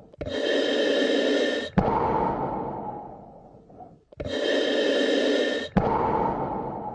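Slow, deep human breathing: two full breaths. Each has a steady rush of about a second and a half that stops at a short click, then a longer breath sound that fades away over about two seconds.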